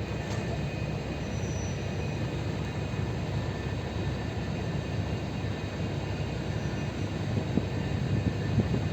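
A ship's engine running during berthing: a steady low rumble with faint steady higher tones.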